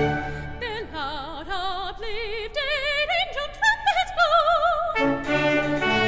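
A soprano sings an unaccompanied solo passage with wide vibrato, climbing to a held high note. The orchestra stops just after the start and comes back in about five seconds in.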